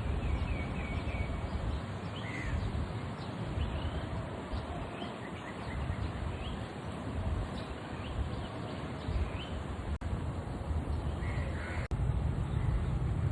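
Birds calling outdoors, short rising chirps scattered throughout, over a steady low rumble.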